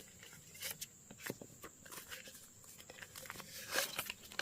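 Paper banknotes being handled, unfolded and counted: a run of short, irregular crinkles and rustles.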